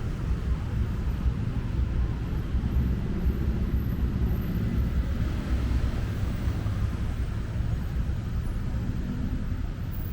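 Steady traffic on a busy city road: a continuous low rumble of engines and tyres passing.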